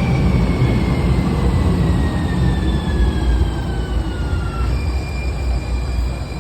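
Siemens S200 light rail car running through the station over a low rumble, its motor whine falling slowly in pitch as the car slows. About five seconds in, the falling whine gives way to a steady higher tone.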